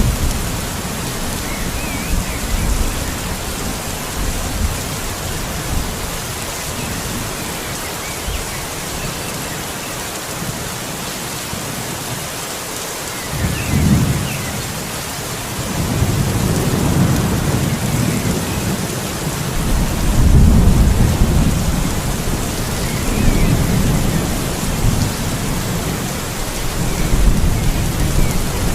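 Steady rain with rolling thunder: a low rumble swells about 14 seconds in, and further long rolls of thunder rumble through the second half.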